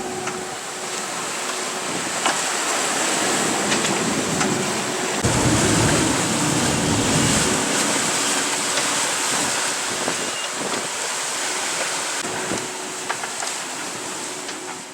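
Wind and rushing sea water aboard a sailing yacht under way, a steady wash of noise, with wind buffeting the microphone from about five seconds in.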